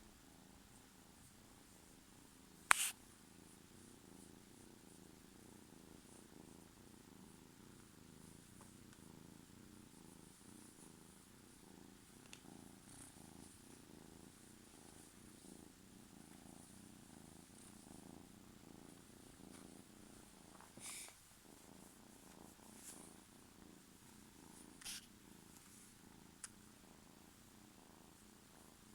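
Kitten purring steadily and softly, with a few brief sharp noises breaking in, the loudest about three seconds in and two more near the end.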